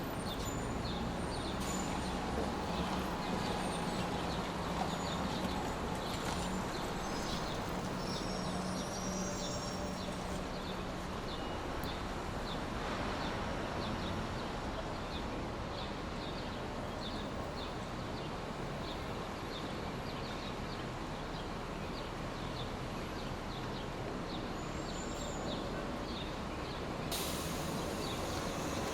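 A steady brown-noise track: a constant, even rushing hiss with faint ticks repeating at a regular pace. A low hum runs underneath for the first several seconds. The high end grows brighter near the end.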